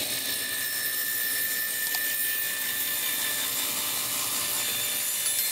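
Power saw cutting cedar, a steady high hiss of blade through soft wood.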